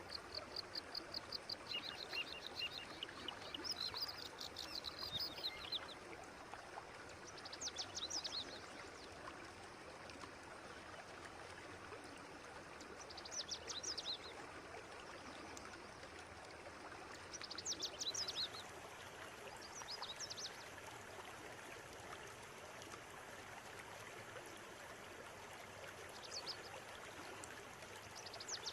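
River water running steadily, with small birds calling over it: a fast run of repeated high notes in the first few seconds, then short bursts of chirps every few seconds.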